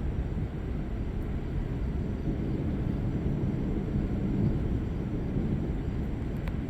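Thunderstorm ambience: a steady low rumble with slow swells, and a faint click near the end.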